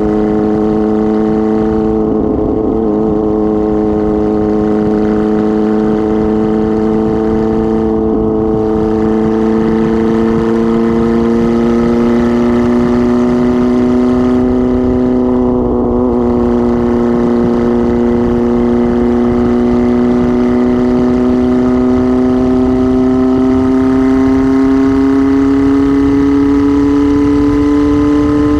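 1999 Kawasaki ZR-7's 750cc inline-four engine running with no exhaust muffler while being ridden, a loud, steady engine note whose pitch climbs slowly as the bike gathers speed.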